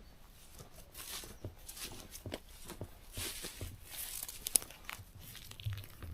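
Footsteps walking through rustling vegetation, uneven and irregular, with a single sharp snap about halfway through.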